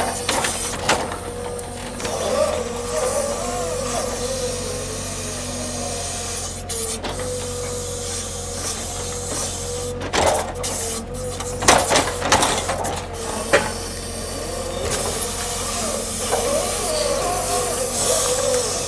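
Log truck being unloaded: heavy machinery running with a steady whine over a low engine hum, and a cluster of knocks and clunks about two-thirds of the way through.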